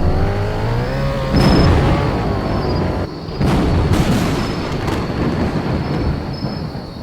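Thunder rumbling, with sharp cracks about one and a half, four and five seconds in.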